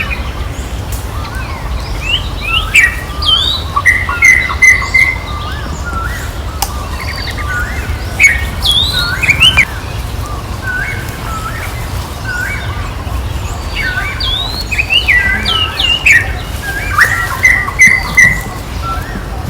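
Short, high-pitched chirping calls in several quick bouts, over a steady low rumble.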